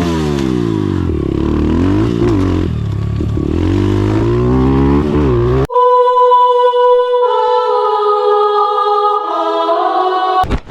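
Carbureted 140 cc dirt bike engine revving up and down repeatedly. About halfway through it cuts off abruptly, and a few seconds of steady, clean tones follow, stepping down in pitch.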